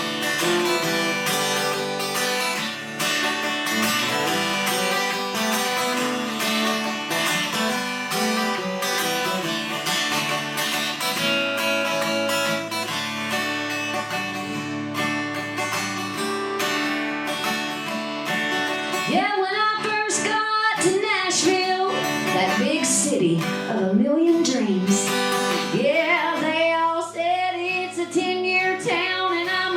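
Live country-style song on acoustic guitar: the guitar plays alone for most of the stretch, then a woman's singing voice comes in about two-thirds of the way through.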